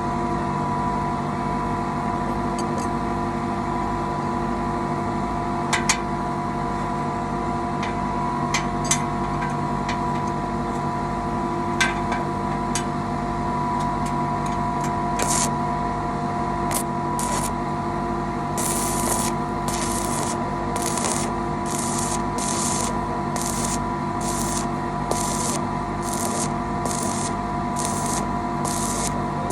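Welding: short hissing bursts of the arc, repeated at a little over one a second in the second half, over a steady electrical hum from the welding machine. A few sharp clicks come earlier.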